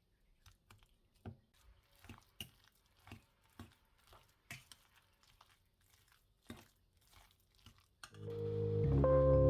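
Soft, irregular crinkling and tearing sounds, about a dozen short crackles. About eight seconds in, background music with mallet percussion fades in and becomes the loudest sound.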